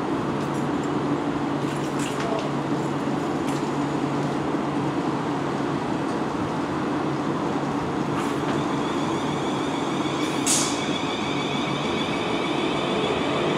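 South Western Railway electric multiple-unit train moving slowly through the station, with a steady rumble and hum and a few sharp clicks. A high whine joins from about eight seconds in, and a short hiss sounds about ten and a half seconds in.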